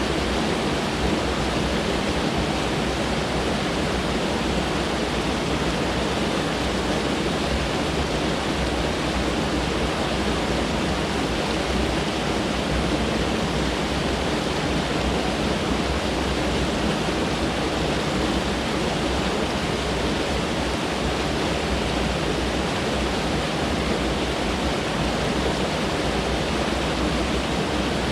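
Mountain stream rushing over rocks, a steady, unbroken roar of water.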